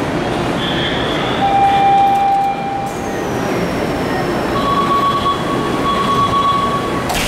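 Steady hum of a commuter train standing at an underground station platform. A tone sounds briefly about a second and a half in. Later a repeating electronic warning tone starts up as the train's doors and the platform screen doors close.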